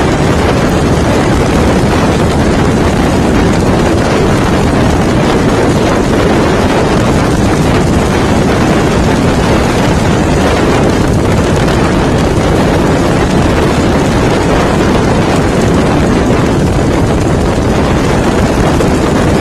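Bobber motorcycle being ridden, its engine running under a loud, steady rush of wind on the microphone.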